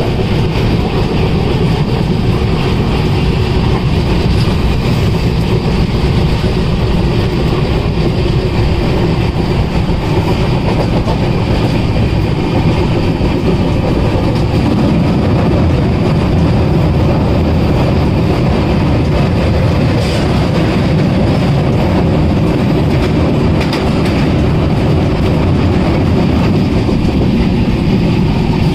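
Passenger train running along the track, a loud, steady rumble and rattle of the moving coaches.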